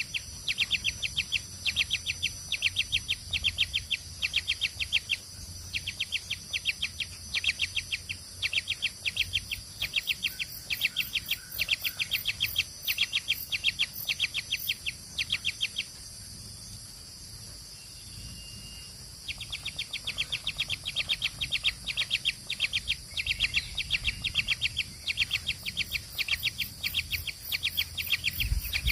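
Baby birds giving rapid, evenly repeated begging chirps in long runs, with a pause of about three seconds a little past the middle.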